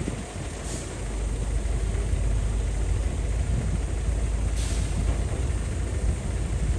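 Heavy diesel earthmoving machinery running, a steady low rumble that grows louder about a second in, with two brief hisses.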